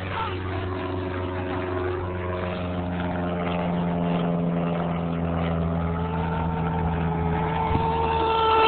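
Small fuel-burning engine of a radio-controlled monster truck running steadily at a fairly even pitch, growing louder near the end.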